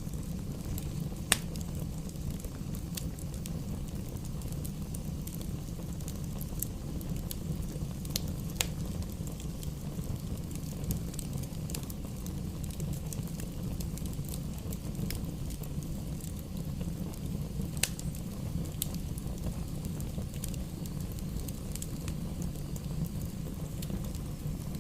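Wood fire burning in a fireplace: a steady low rumble of flames with scattered sharp crackles and pops, a few of them louder than the rest.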